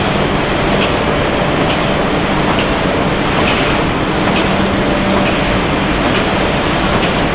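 Potato chip production line machinery running, including an inclined cleated conveyor: a steady mechanical rumble with a low hum and a light click a little more often than once a second.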